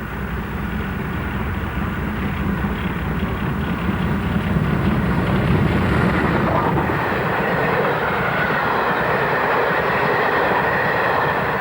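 Great Western Hall-class steam locomotive hauling a passenger train. The sound grows louder over the first five seconds or so and stays loud after that.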